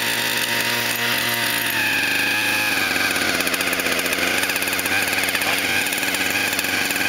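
Small engine with a 644 carburetor running steadily, its speed rising about two seconds in as the choke comes off. It runs on choke but has been burning off its fuel and dying, a hard-start fault the owner cannot yet explain.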